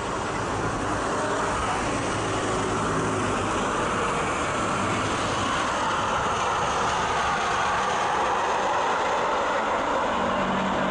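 Jet engines of a Boeing 787-8 Dreamliner on arrival: a steady, broad roar that swells slightly over the first couple of seconds and then holds.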